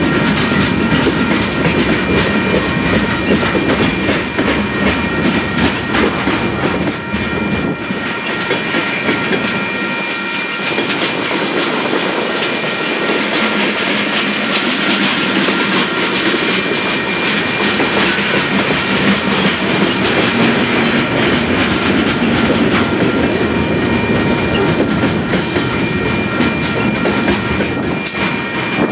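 Freight cars of a Union Pacific manifest train, mostly covered hoppers, rolling past close by. Steel wheels rumble steadily on the rail, with a quick run of clicks as the wheelsets cross rail joints and a thin steady high whine.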